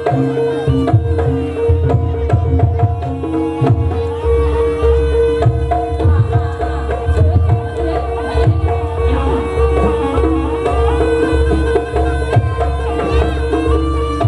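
Live jaranan accompaniment music: hand drums play a quick, busy rhythm over a long held note and deep, regular low pulses.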